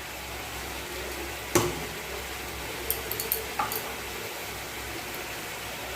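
Yogurt-marinated chicken cooking in oil in a pan with a steady low sizzle. A sharp knock about a second and a half in, then a few lighter clicks around the middle.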